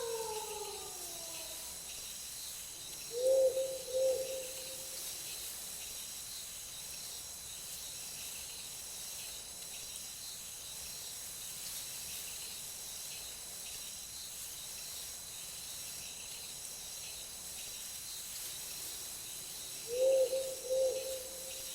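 The tail of a wolf howl sliding down in pitch and fading within the first second or two. Then an owl hoots twice about three seconds in and again in a short run near the end, over a steady high chorus of night insects.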